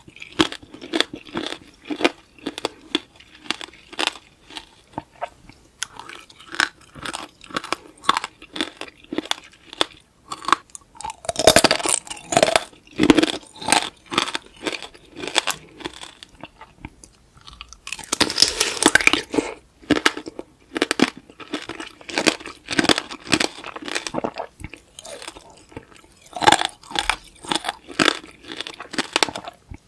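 Close-miked crunching and chewing of tanghulu: the hard candied sugar shell cracks between the teeth in a run of crisp crackles. There are two louder, denser spells of crunching, about eleven seconds in and again around eighteen seconds.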